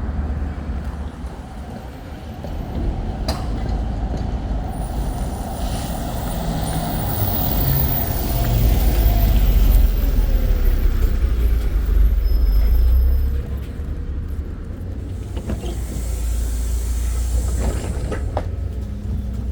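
NefAZ-5299 CNG city bus heard from inside while under way: steady low engine and road rumble that rises in pitch in steps and grows louder for several seconds as the bus accelerates, then drops back. A short air hiss comes near the end.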